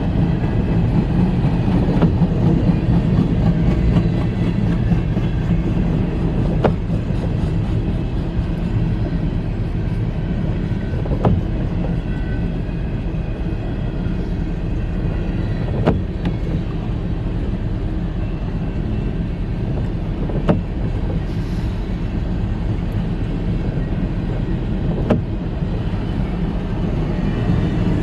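Freight cars of a mixed freight train rolling past with a steady rumble, broken by a sharp click about every four and a half seconds.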